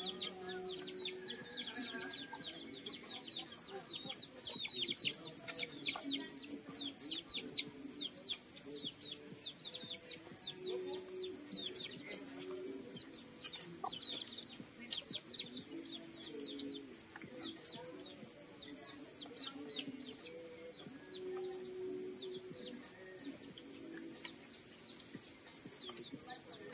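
Birds chirping in many short, quick notes, thick for the first two-thirds and thinning out towards the end, over a steady high-pitched drone.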